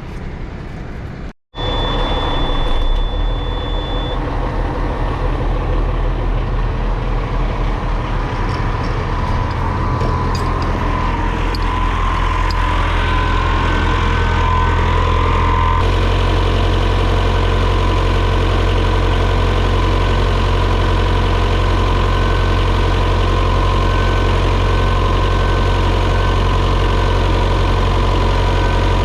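Bus diesel engine idling steadily with the AC compressor running, pumping the refrigerant out of the low side for a pump-down. The sound cuts out briefly about a second and a half in.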